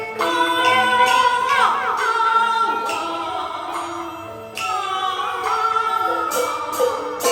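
Beiguan opera singing in the Fulu style: a voice holding long notes with bending, sliding pitch over traditional instrumental accompaniment. A couple of sharp percussion strikes come near the end.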